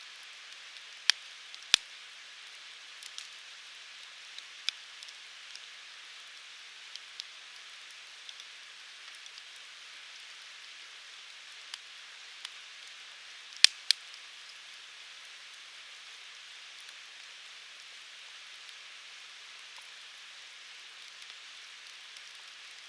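Firewood burning in a UNIFLAME Fire Grill fire pit: a steady hiss with scattered sharp crackles and pops. The loudest pops come as two pairs, one about a second in and one about fourteen seconds in.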